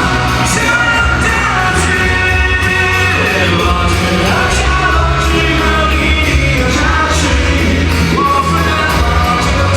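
Live pop-rock band playing with a singer, heavy bass and drums under the vocal line.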